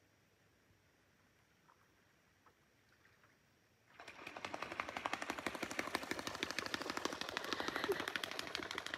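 Near silence, then about four seconds in a sudden, rapid rattling chatter of many clicks a second from an animal starts and carries on without a break.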